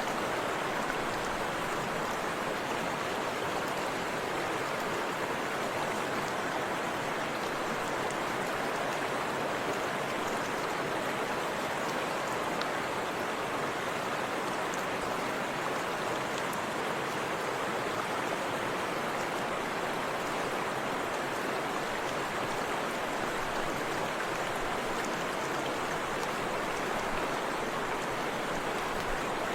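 Forest river and small waterfall, water rushing and splashing in a steady, unbroken flow.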